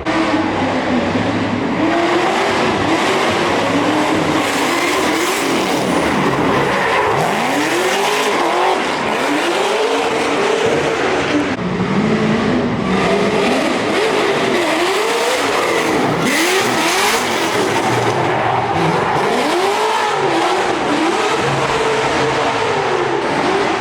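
Drift car engines revving hard, pitch rising and falling again and again as the throttle is worked through a drift, with tyre squeal and hiss underneath.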